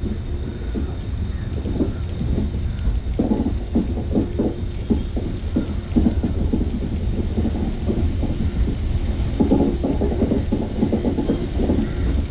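A passenger train running on the track: a steady low rumble of wheels on rail with a dense, irregular rattle from the carriage.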